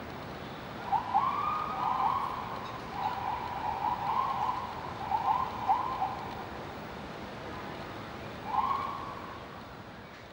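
A bird calling: short arched notes that rise and fall, given in quick runs and then once more near the end, over a steady hum of city traffic.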